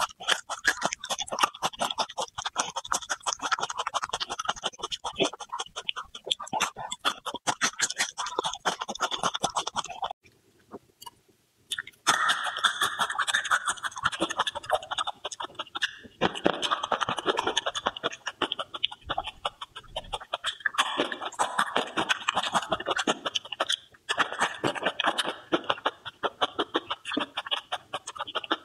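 Close-miked wet chewing, lip smacks and mouth clicks of a person eating, in a rapid irregular crackle, broken by about two seconds of near silence around the middle.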